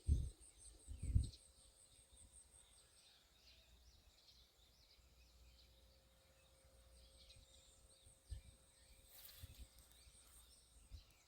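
Faint birds chirping: scattered high chirps and a rapid run of repeated high notes during the first three seconds. Two low thumps near the start and a short hiss about nine seconds in.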